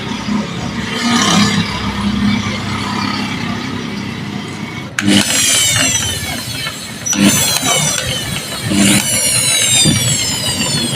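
Angle grinder's universal motor, just fitted with an armature, switched on three times from about halfway in, in a test run for brush sparking. Each time a sharp start is followed by a high whine that falls in pitch.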